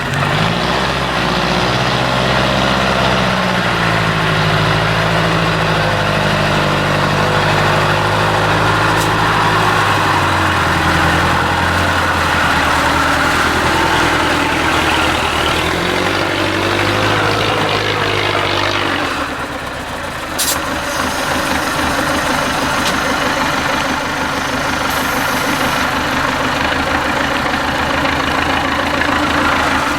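IFA W50 truck's four-cylinder diesel engine working hard off-road, its pitch rising and falling with the throttle, then settling to a lower, steadier run about two-thirds of the way through. A single sharp click shortly after.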